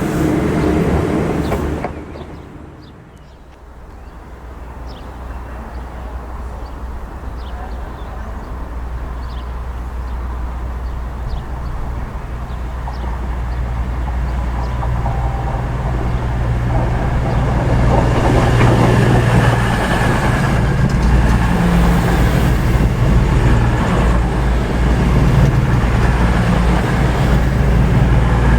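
Diesel train engine running, growing steadily louder over about fifteen seconds and then holding loud and steady.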